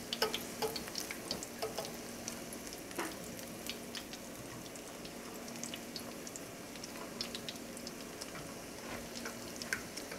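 Battered cardoon strips frying in vegetable oil in a skillet: a steady sizzle full of small pops and crackles, with a fork now and then clicking against the pan as the strips are turned.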